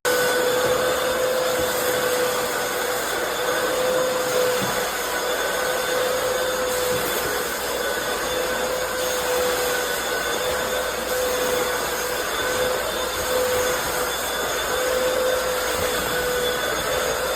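Hoover FloorMate Deluxe FH40160PC hard floor cleaner's vacuum motor running steadily in dry mode, a constant whine over a rush of air that starts suddenly and holds level throughout.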